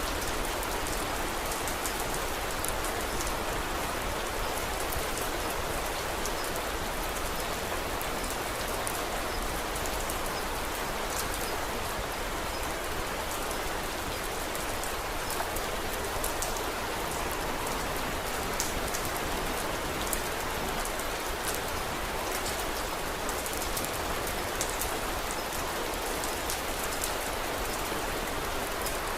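Steady rain falling, with scattered small crackles from a wood fire in a fireplace.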